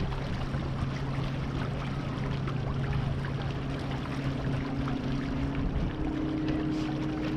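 Water rushing and splashing along the hull of a Beneteau First 20 sailboat under way, a steady hiss with small splashes. Under it runs a steady low hum that gives way to a slightly higher hum about four to five seconds in.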